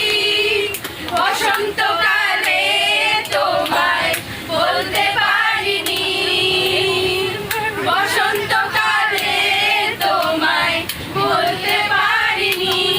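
A group of voices, mostly women's, singing together without instruments, with long held notes.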